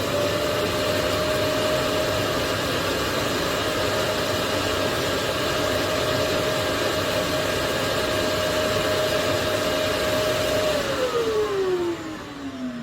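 Xiaomi Robot Vacuum X20 Pro's self-emptying base station sucking the dust out of the robot's bin. Its suction motor runs at full speed as a steady whine over a rush of air, then winds down near the end, its pitch falling.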